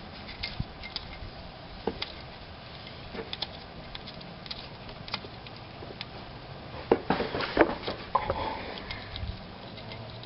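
Scattered light clicks and knocks of work on the car, with a cluster of louder knocks about seven seconds in, over a faint steady hum.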